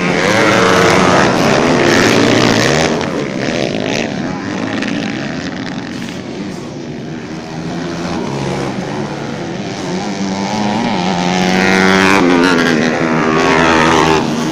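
Motocross and grasstrack dirt bikes racing, their engines revving up and down through the gears; they are loudest as bikes pass in the first few seconds and again near the end, fading somewhat in between.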